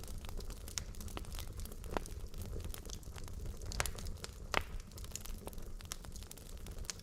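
Wood logs burning in a fireplace: irregular crackles and pops over a low, steady rumble of the flames, with a few louder snaps about two, four and four and a half seconds in.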